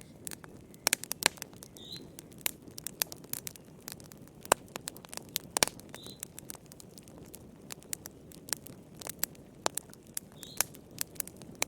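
Wood fire crackling, with frequent irregular sharp pops over a low steady rumble. A bird chirps briefly three times, a few seconds apart, in the background.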